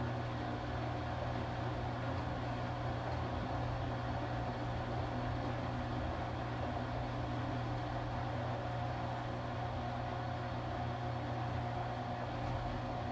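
Washing machine running with a steady mechanical hum: a strong low drone with a fainter higher whine above it, holding even throughout.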